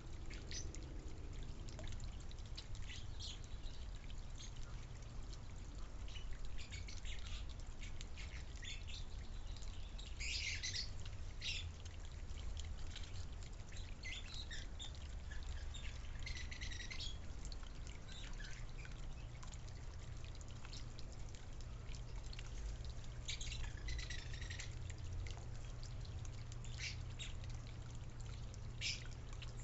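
Backyard birds chirping in short scattered calls, in clusters every few seconds, over a steady low rumble.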